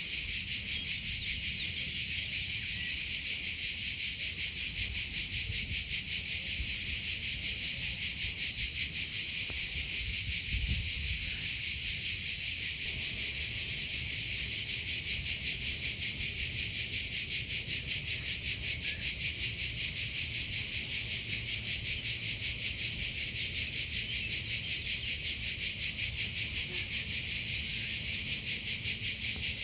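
Crickets chirping steadily, a high, continuous trill that pulses in a fast, even rhythm.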